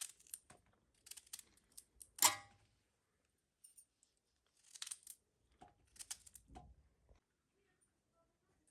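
Scattered scraping and rustling handling noises, with one louder sharp knock about two seconds in.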